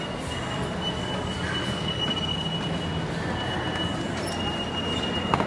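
Children's choo-choo train ride running past, with a steady high-pitched whine over a low rumble.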